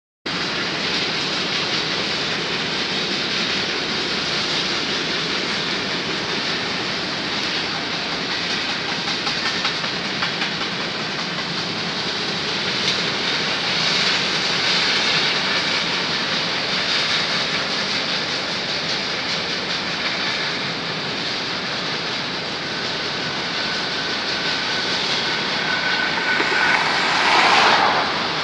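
Freight train rolling past: steady wheel-on-rail noise with clickety-clack from the cars. A faint high squeal from the wheels holds for a few seconds past the middle, and the sound swells briefly near the end.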